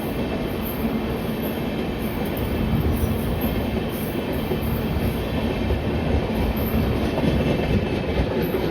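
Electric train running on the track: a steady rumble of wheels on rails with a faint steady hum underneath.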